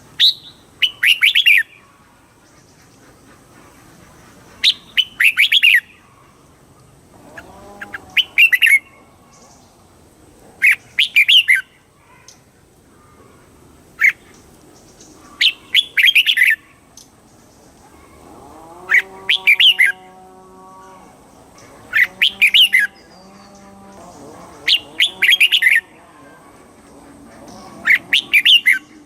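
Red-whiskered bulbul singing: short, bright, repeated song phrases, one every two to three seconds. A lower, steadier call sounds twice behind it about two-thirds of the way through.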